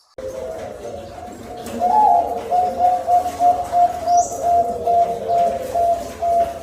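Zebra dove (perkutut) cooing: a long run of short, even coos, about two or three a second, starting abruptly. A brief high chirp from another small bird comes about four seconds in.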